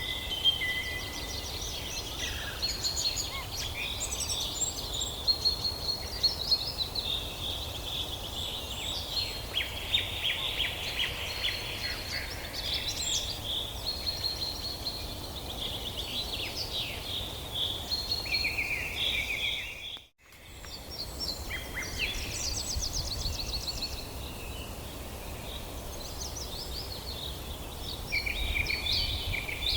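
Several birds singing and calling at once in a forest dawn chorus: overlapping chirps, whistles and fast trills over a steady low rumble. The sound cuts out for a moment about two-thirds of the way through, then resumes.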